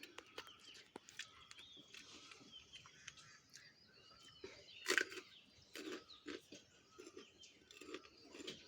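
Close-up eating sounds: irregular chewing, mouth smacks and clicks, with a louder bite about five seconds in. Faint bird chirps are heard behind them.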